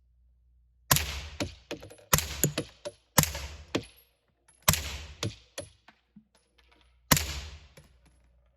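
Suppressed 9mm gunfire from a B&T APC9 Pro: a string of sharp, fairly muted reports, one every one to two seconds. Each report is followed by a few lighter cracks and a brief high ring.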